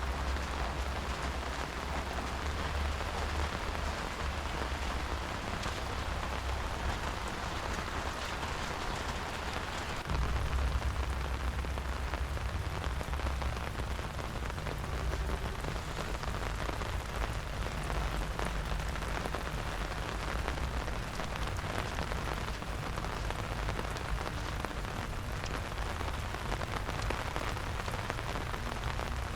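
Steady rain falling, an even hiss of drops, over a low rumble that gets louder about ten seconds in.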